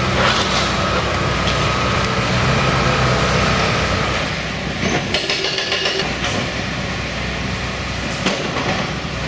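Heavy demolition excavators running with steady diesel engine noise while breaking up a concrete bridge, with a stretch of clattering and scraping about five seconds in.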